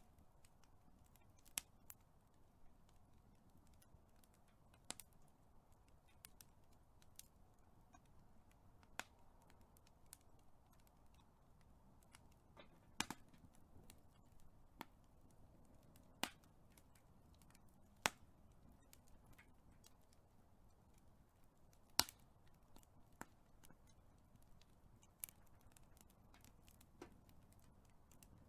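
Big wood fire crackling: irregular sharp pops and snaps over a faint, steady low hiss of the flames, with a few louder cracks scattered through.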